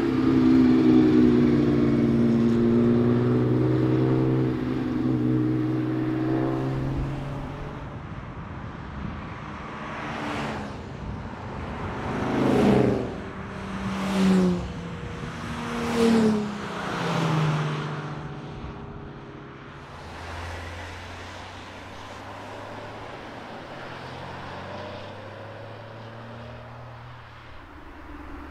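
Ferrari 365 GTB/4 Daytona's V12 accelerating loudly past, its pitch climbing through the gears. Then a string of about five cars passes in quick succession, each swelling and dropping in pitch as it goes by, followed by a quieter low engine drone.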